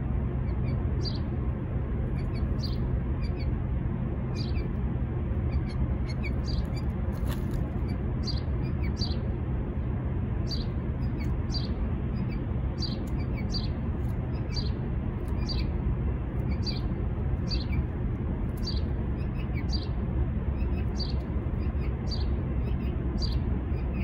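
Small birds chirping outdoors, short high chirps about once a second, now and then two close together, over a steady low rumble.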